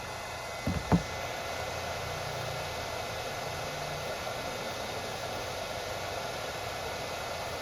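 Steady hiss, with two short knocks about a second in, the second one louder.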